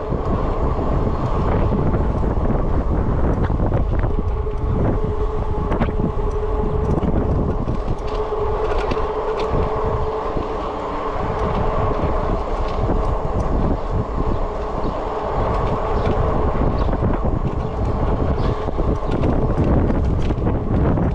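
Wind buffeting the microphone and road noise from an e-bike being ridden, with scattered rattling clicks and a steady hum for several seconds in the middle.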